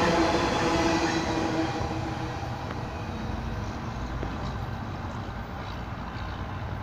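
The last cars of a BNSF intermodal freight train rolling past on steel rails, with a steady ringing tone over the rumble for the first second and a half. The rumble then drops and fades as the end of the train moves away.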